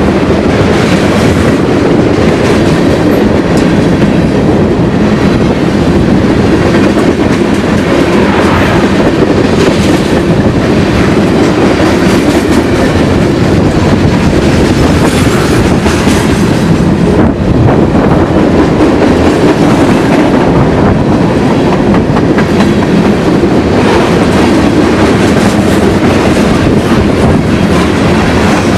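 A train passing close by, its cars' wheels clattering steadily over the rails.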